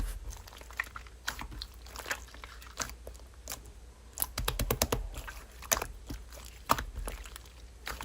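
Slime being squeezed and pressed by hand, making irregular wet clicks and crackly pops, with a quick cluster of them about halfway through.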